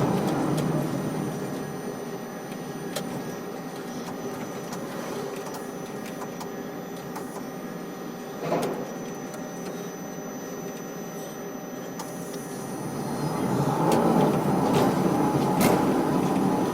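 Crane machinery running with a steady mechanical whir. It swells louder near the start and again in the last few seconds, with a single knock about eight and a half seconds in.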